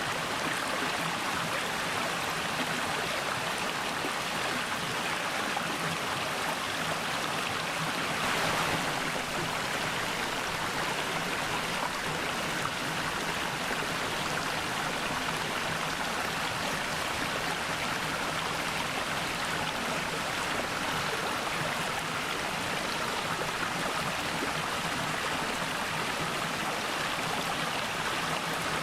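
Mountain valley stream flowing steadily over rocks, an even rushing of water with a brief swell about eight seconds in.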